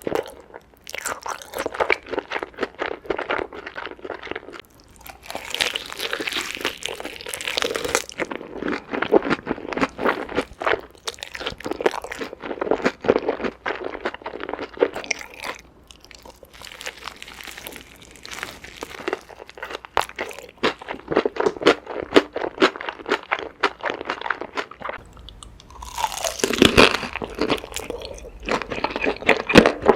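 Close-miked eating: repeated crunchy bites and chewing, coming in bouts with short pauses between them, and a louder burst of crunching near the end.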